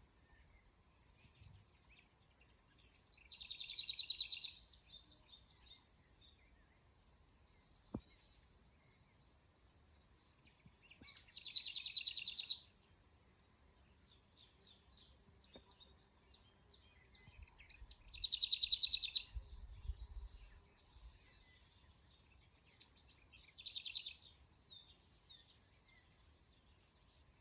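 A small bird singing a short, rapid trill four times, several seconds apart.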